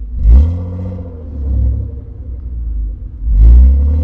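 BMW E36 325is straight-six idling, heard from inside the cabin with the window down, revved up briefly twice, about three seconds apart, as the car pulls away at walking pace.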